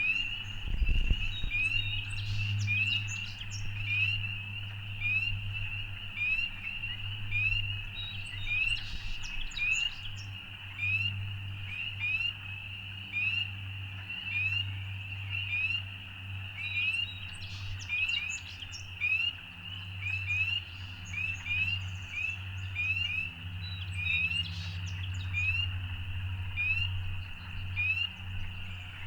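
A dense chorus of frogs, many short rising peeps overlapping without pause, with scattered bird chirps above it. A steady low hum runs underneath, and there is a brief low thump about a second in.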